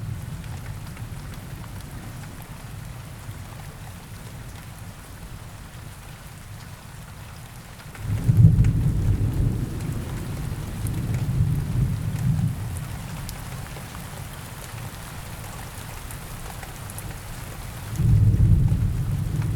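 Steady rain falling, with two low rumbles of thunder: one coming in suddenly about eight seconds in and rolling for several seconds, another starting near the end.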